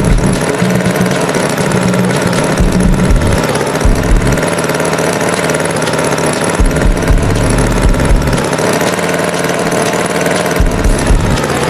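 Tractor engine running, with low pulses coming and going unevenly.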